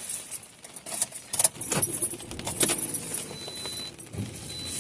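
A run of jingling, metallic clicks and rattles, with a few knocks, coming thickest in the first three seconds.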